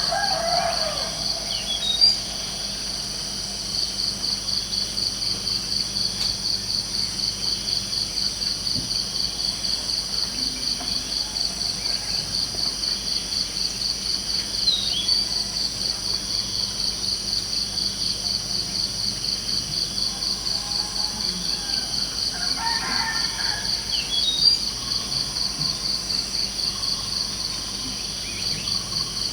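Crickets chirring steadily in a fast, even pulse, with a few short bird calls: one at the start, one midway and a couple late on.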